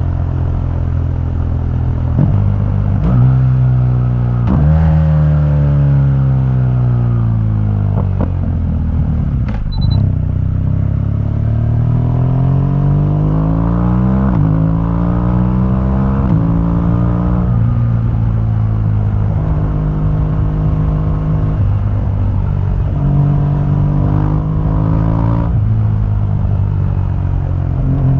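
2015 BMW R1200GS's liquid-cooled boxer twin running through its stock exhaust while riding. It revs up and drops in pitch at each gear change, slows steadily around the middle, then pulls up through several gears again and holds a steady cruise.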